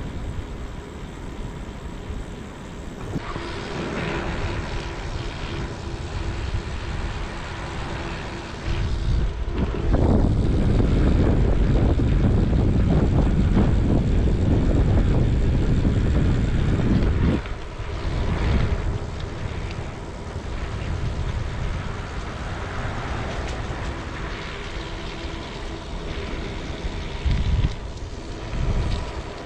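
Wind rushing over a camera microphone on a moving bicycle, with a steady low hum underneath. A much louder, heavier low wind rumble lasts about eight seconds in the middle, then eases off.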